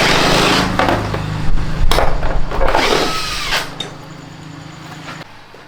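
Handheld power driver run in several short bursts, its motor whine sliding down as it winds down, while fasteners are taken out to strip a scooter. A steady low hum under it stops about five seconds in.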